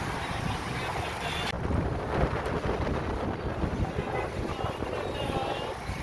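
Strong gusty wind, with heavy buffeting on the microphone.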